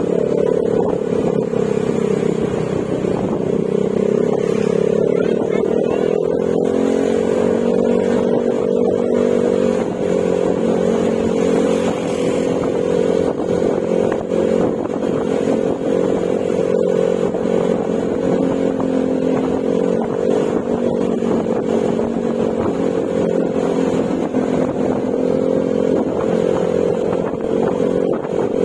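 Yamaha Mio Gravis scooter's 125 cc single-cylinder engine running through an aftermarket Akrapovic exhaust with silencer, under way at a fairly steady throttle. The engine pitch creeps up over the first several seconds, drops about ten seconds in, then holds with small rises and dips.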